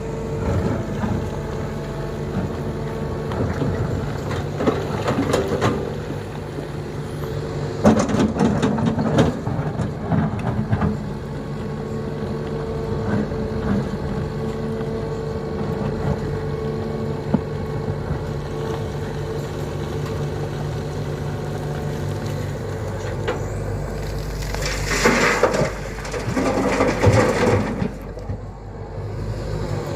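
Diesel engine of a Tata Hitachi 120 excavator running steadily, with crunching and clattering as loads are dumped into a truck bed, about eight seconds in and again near the end.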